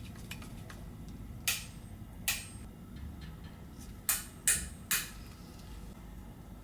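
Five sharp little clicks of small tools and parts being handled during iPhone 11 repair work, two spaced apart and then three in quick succession.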